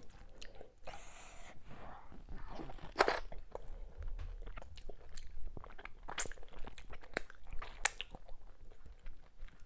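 Close-miked chewing of fufu with ogbono soup, with wet mouth clicks and lip smacks at irregular intervals.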